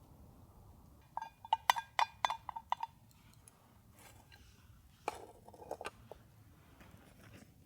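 A metal utensil clinking against metal cookware, with about ten quick ringing clinks between one and three seconds in. A softer cluster of knocks and scrapes follows around five seconds in.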